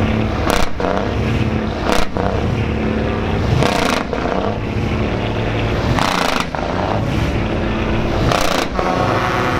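Heavy truck engines running, with a series of short, loud noisy bursts one to two seconds apart.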